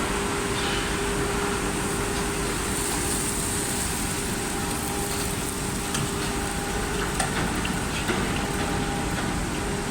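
Induction melting furnace running in a foundry workshop: a steady hum with a constant mid-pitched tone over a hiss, with two sharp clicks near the end.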